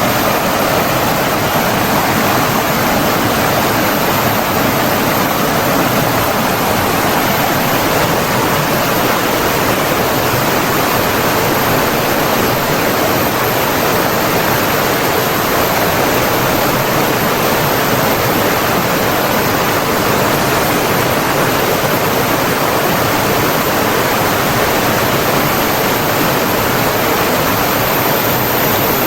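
Steady, unbroken rush of flowing water, as from a stream or waterfall.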